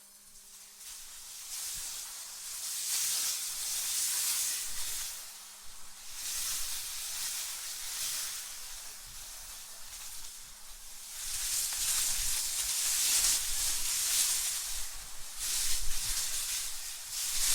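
AI-generated wind sound: a hissing rush of gusts that swell and die away several times, with a low rumble joining about eleven seconds in.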